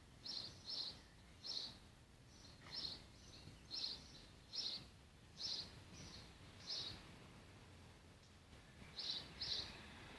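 A small bird chirping: short high notes repeated roughly once a second, some in quick pairs, with a pause of about two seconds before the last pair. Faint steady garden background noise underneath.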